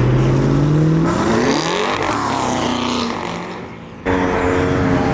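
Performance car engines leaving a meet, heard in separate clips. An engine revs with slowly rising pitch until it cuts off abruptly about a second in. Then a car's engine rises and falls in pitch as it goes by and fades. Near the end another engine comes in suddenly, running steadily.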